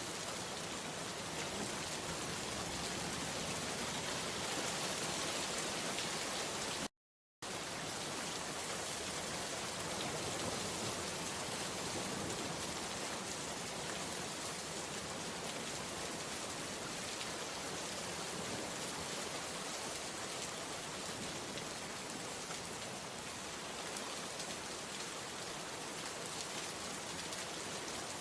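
Steady rain falling. It cuts out to silence for about half a second, about seven seconds in, then resumes.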